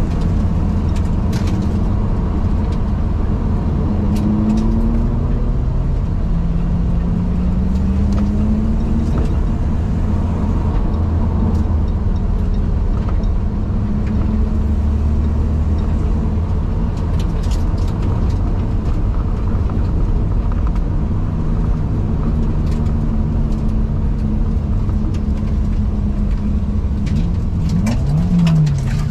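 Car engine and road noise heard from inside the cabin, a steady low rumble with the engine note slowly rising and falling with the throttle. There is a short rev up and back down near the end.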